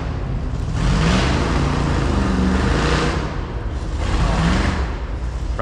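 A competition off-road truck's V8 engine revving hard in repeated surges, its pitch rising and falling. Onlookers take it for a Chevy small-block, about a 355, with head work.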